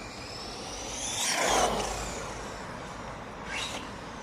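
Helion Avenge 10MT XLR RC monster truck's brushless motor and drivetrain whining as it speeds past at full throttle. The whine grows loud about a second and a half in, then drops in pitch and fades as the truck goes by.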